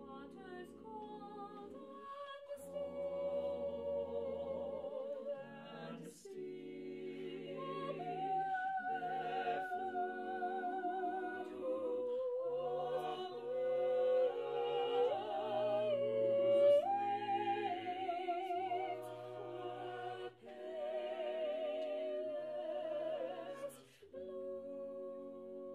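Small choir singing unaccompanied in parts, long held notes with vibrato in slow phrases, with short breaks for breath about six seconds in and twice near the end.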